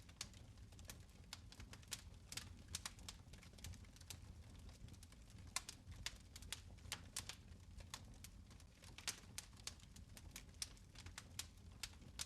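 Fire crackling in a fireplace: frequent irregular sharp pops and ticks over a low steady rumble.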